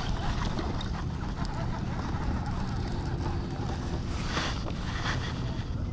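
Steady wind rumble on the microphone over open water, with two short noisy bursts about four and five seconds in.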